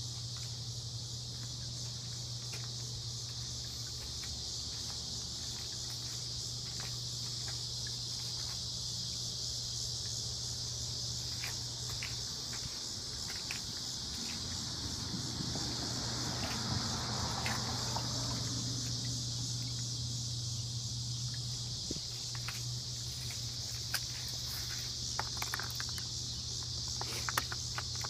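Insects chirring steadily in a high band, over a low steady hum, with scattered faint clicks and a broader swell of noise in the middle.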